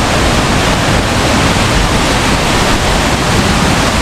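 Loud, steady rushing of water, unbroken.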